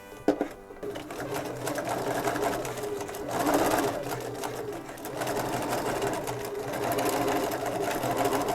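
Bernina 335 sewing machine stitching a seam, its motor and needle running steadily from about a second in.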